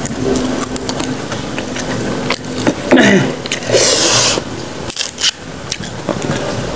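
Close-miked chewing and wet mouth clicks of someone eating raw unripe stone banana with rujak sambal, with a short rasping, tearing noise about four seconds in as the green skin of a banana piece is peeled off.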